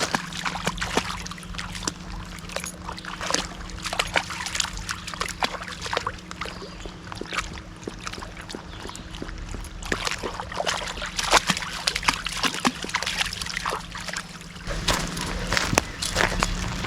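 Water splashing and sloshing at the edge of a shallow creek, with many irregular clicks and small splashes.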